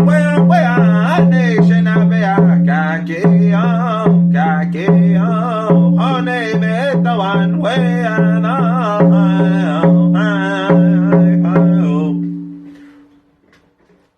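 Powwow-style singing over a hand drum beaten at a steady beat, the drum's low ring sustaining under the voice. Near the end the singing and drumming stop and the drum's ring dies away.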